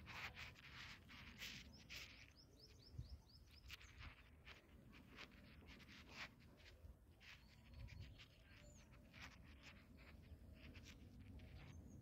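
Faint outdoor ambience: a small bird chirping, with a quick run of about eight short falling chirps about two seconds in and a single chirp later, over scattered soft clicks and rustles.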